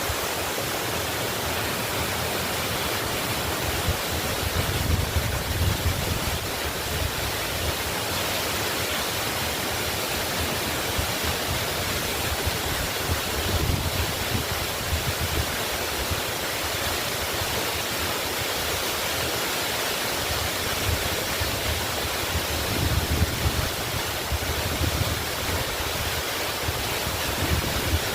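Waterfall rushing in a steady, even roar of falling water, with a low rumble swelling and fading a few times.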